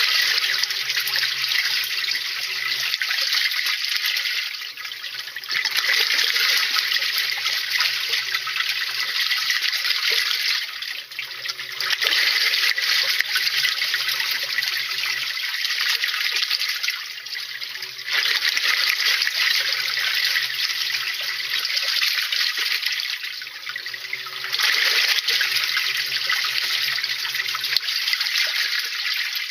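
Water rushing and splashing inside a top-loading washing machine's tub, rising and easing in surges about every six seconds, with a low motor hum at the start of each surge, during a tub-cleaning cycle.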